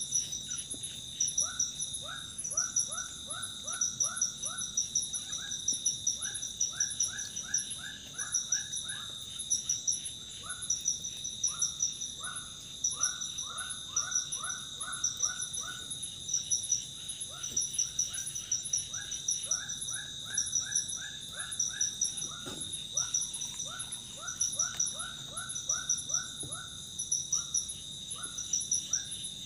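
Forest insects and other creatures: a steady high insect drone with pulsing trills above it, and an animal giving runs of short rising notes, several quick notes to a run, over and over.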